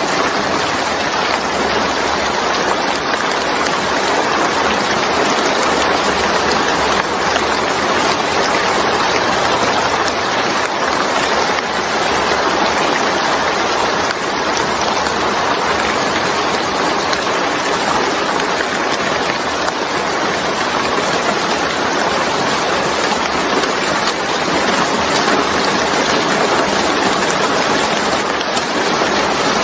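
Steady, heavy rain falling: a dense, even hiss that holds at the same level throughout, with no distinct drops or thunder standing out.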